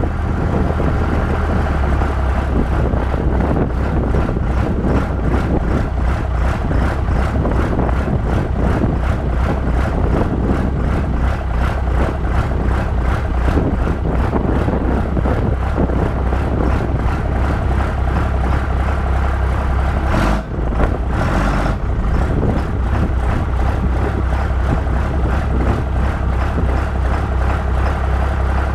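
24-valve Cummins 5.9 inline-six turbo diesel, converted to a mechanical P-pump, idling with an even, fast rhythm shortly after a cold start. The sound dips briefly about twenty seconds in.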